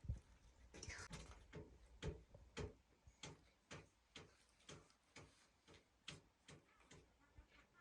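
Faint, light taps repeating evenly at about two a second, like a knife or tool striking a hard surface.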